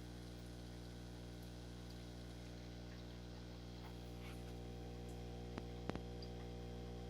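Steady low electrical hum with a stack of even tones, broken by a couple of sharp clicks near the end.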